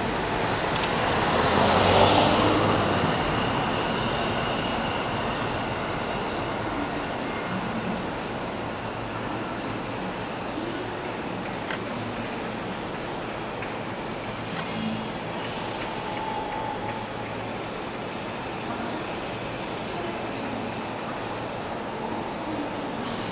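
Train noise with a high squeal, loudest about two seconds in, then fading into a steady, even rail rumble.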